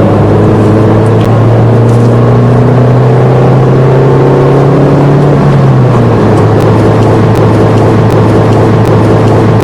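Car engine and road noise heard while driving, loud and steady. The engine note climbs slowly for about five seconds, then drops about six seconds in and holds steady.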